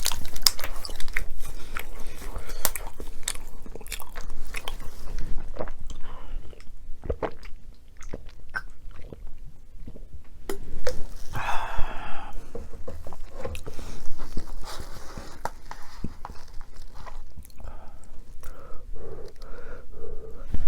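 Close-miked eating: bites and crunchy chewing of food. The crunching comes as quick sharp clicks, densest in the first few seconds and thinning out after that.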